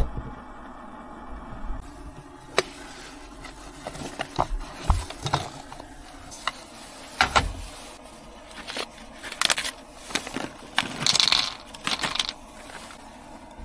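An irregular string of clicks, knocks and scrapes, like objects being handled and set down, with a longer rustling scrape about eleven seconds in.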